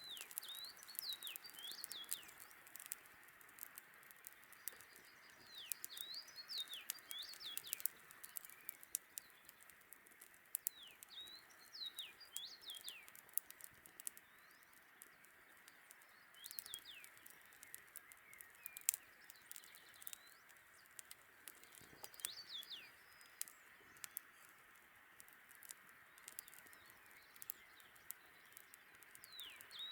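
Songbird singing a short phrase of quick sweeping notes, repeated every two to four seconds, over a steady faint hiss and scattered sharp crackles of a campfire.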